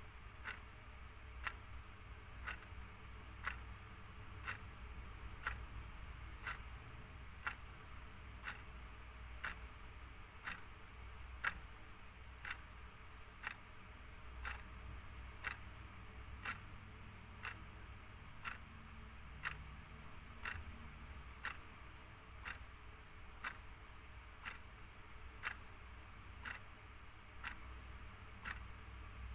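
Mechanical clock ticking steadily, about two ticks a second, alternating stronger and weaker, over a faint low hum.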